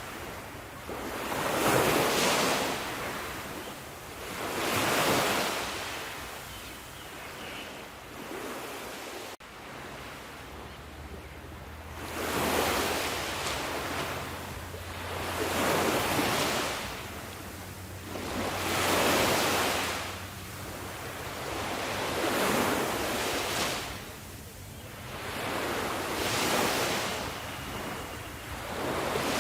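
Sea waves breaking and washing on a shore, swelling and fading in regular surges about every three to four seconds. A brief cut in the sound about nine seconds in.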